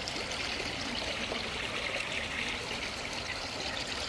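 Steady rush of flowing water from the river and waterfalls, an even hiss with no breaks.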